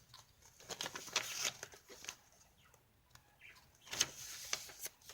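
Paper and card pages of a handmade junk journal rustling and flapping as they are turned and handled, in two bursts about a second in and about four seconds in.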